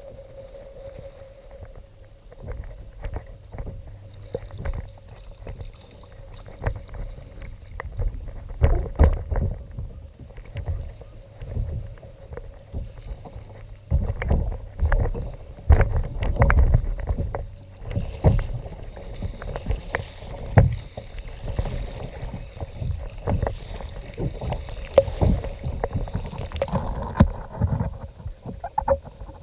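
Kayak on the water: paddle strokes and water sloshing against the hull, with irregular knocks and bumps. Low rumbling surges come and go, heaviest in the middle stretch.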